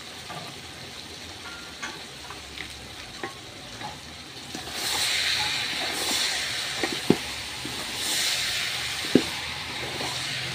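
Boiled yellow beans frying in an onion-and-spice base in a large aluminium pot, sizzling, with a wooden spoon stirring them through. The sizzling hiss grows louder about halfway through as the stirring gets going, with a few sharp knocks of the spoon against the pot.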